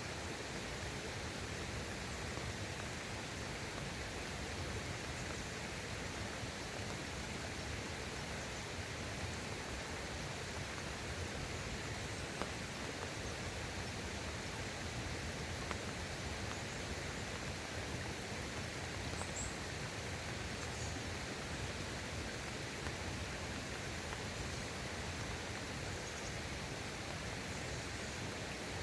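Steady, even rush of a mountain valley stream, with a few faint high chirps about twenty seconds in.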